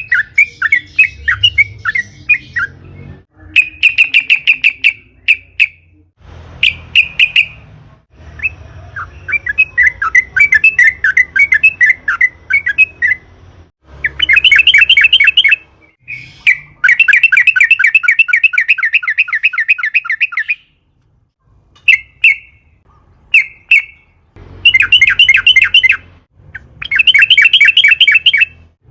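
Yellow-vented bulbul (trucukan) singing: loud bursts of fast, rolling repeated notes, some phrases short and one running about four seconds, with brief pauses between.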